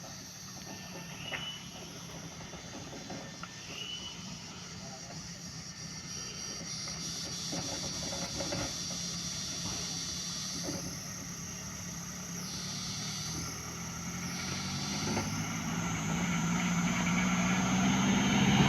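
A vehicle engine running steadily, growing gradually louder and louder toward the end.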